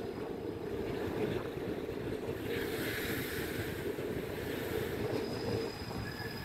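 Steady rumble of a passenger train running, heard from inside the carriage with its windows open, with wind noise on the microphone.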